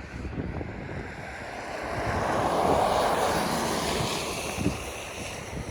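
A vehicle driving past on a snowy road: tyre hiss swells to a peak about halfway through and fades, over low wind rumble on the microphone.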